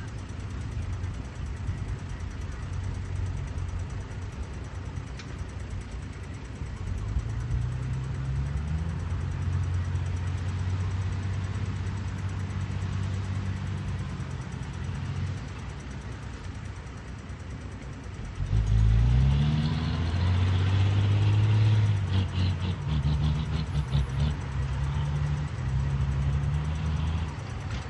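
Caterpillar 320D hydraulic excavator's diesel engine running, its pitch rising a little early on and then revving up sharply about two-thirds of the way through as it takes load, staying loud and uneven afterwards.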